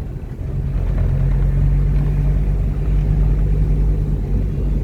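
Steady low drone of a car's engine and road noise heard while driving.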